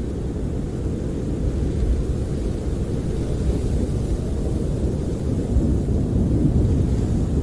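Snowstorm wind blowing against a camper, heard from inside as a steady, deep noise that swells slightly near the end.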